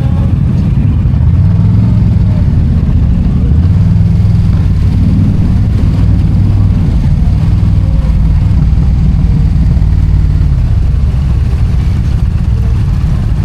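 Indian motorcycle's V-twin engine running with revs rising and falling while riding, under a heavy low rumble of wind on the microphone.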